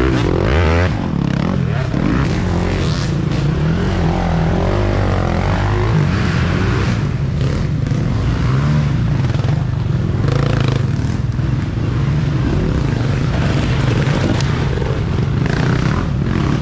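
Off-road racing dirt bike engines revving, the pitch rising and falling as the throttle is worked.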